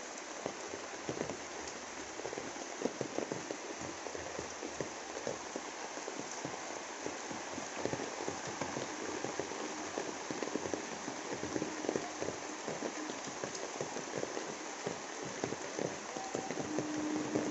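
Steady rain falling on a garden of papaya leaves and wet ground: a constant hiss with many single drops tapping close by.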